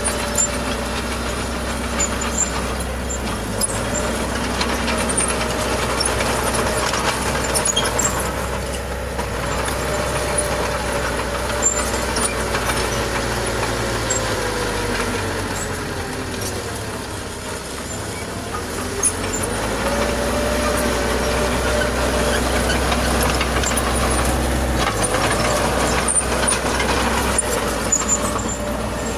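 Heavy diesel engine of earthmoving machinery working under load, its pitch falling about halfway through, then rising again a few seconds later, with scattered clanks.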